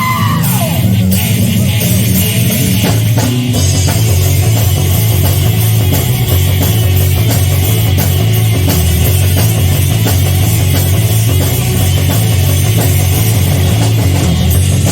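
Live rock band playing loud, with distorted electric guitar, bass and drums, as picked up by a phone's microphone. A held guitar note drops in pitch at the very start before the full band carries on.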